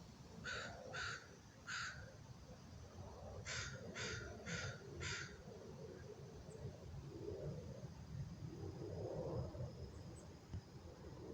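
A bird giving short, harsh calls: three in the first two seconds, then a run of four about half a second apart.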